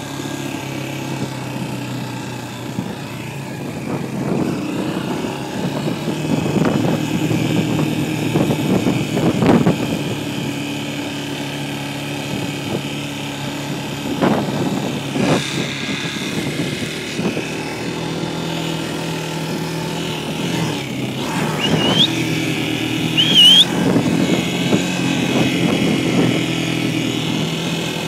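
Dirt bike engines running through the whole stretch, pitch and loudness rising and falling with the throttle.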